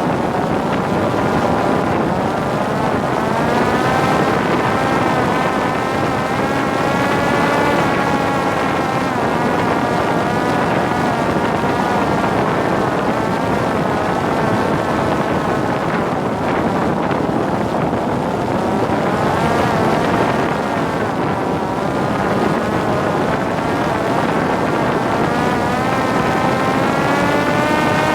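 Parrot Disco fixed-wing drone's electric motor and propeller whining, the pitch slowly rising and falling with throttle, over steady wind rush on the microphone.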